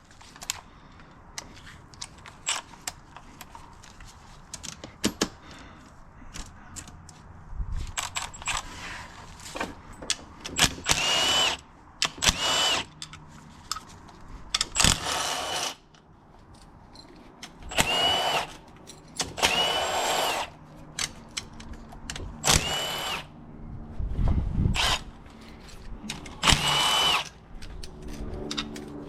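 Power drill run in repeated short bursts, about eight times, each with a steady whine, as it spins bolts out of a Honda CBR600RR engine's crankcase. Sharp metal clicks and clinks of bolts and tools come between the bursts, mostly in the first third.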